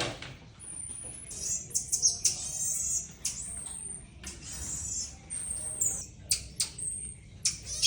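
Small monkey calling in a run of high-pitched squeaky chirps and thin whistles, one whistle held steady about half a second in and another sliding downward near the six-second mark.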